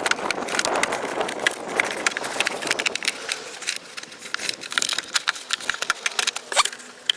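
Irregular clicks and light knocks of engine-bay intake parts being handled and fitted back into place by hand.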